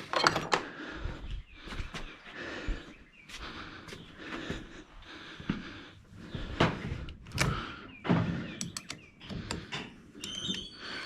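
Metal hand tools clinking and knocking as a socket extension is fitted and worked onto a bolt, with a quick run of clicks late on and a short metallic ring near the end.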